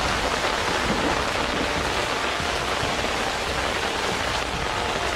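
Heavy rain falling on trees and surfaces, a steady even hiss of downpour.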